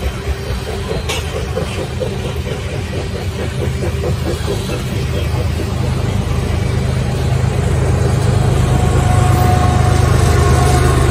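Coal cars of a freight train rolling past with steady wheel clatter. From about halfway through, the steady drone of a mid-train Canadian Pacific diesel locomotive grows louder as the unit comes alongside.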